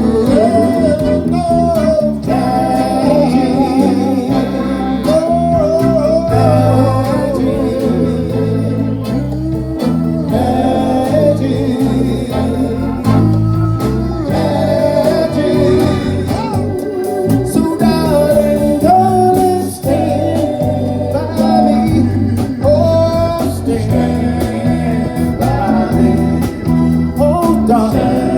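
Live soul and R&B oldies band playing, with a singer's melody over guitar and a steady, rhythmic bass line.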